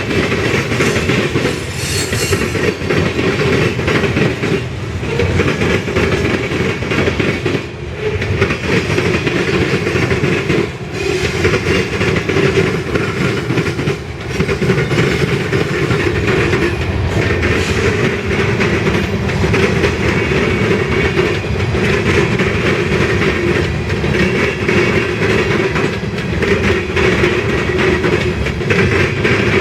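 Freight train cars rolling past: a continuous loud rumble with the clatter of steel wheels on the rails.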